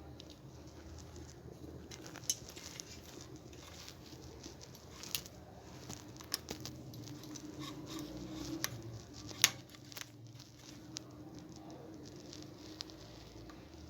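Bench handling noise from small electronic parts and tools: scattered light taps and rustling, with a few sharp clicks, the loudest about nine and a half seconds in, over a faint steady hum.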